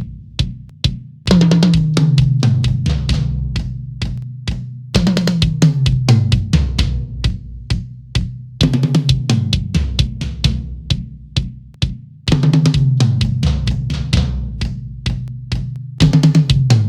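Yamaha Recording Custom drum kit's toms played in fast fills. Each run of strokes steps down in pitch from the high toms to the floor tom, and a new run starts about every three and a half seconds. The toms are recorded raw through a close tom microphone.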